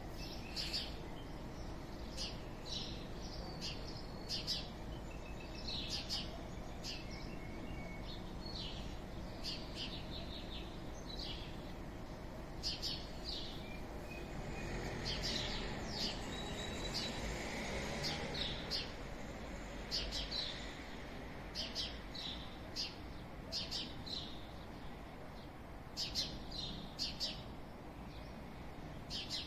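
Small birds chirping in short, repeated calls over a steady low background hum of town noise. A broader rushing noise swells for a few seconds around the middle and then fades.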